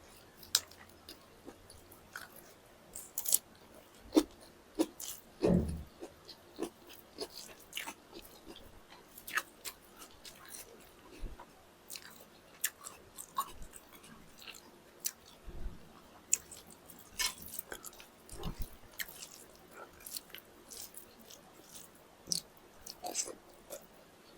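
Close-miked eating: irregular biting, chewing and wet mouth clicks with occasional crunches, from a meal of chicken drumsticks and rice. A few dull thuds stand out among the clicks.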